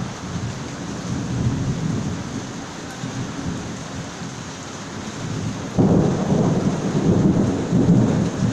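Rain falling steadily with low rolling thunder rumbling through it. The rumble grows suddenly louder about six seconds in.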